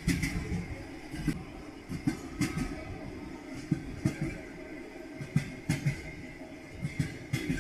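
Railway carriage wheels clattering over rail joints: knocks coming singly or in quick pairs every second or so, over a steady low rumble of the moving train.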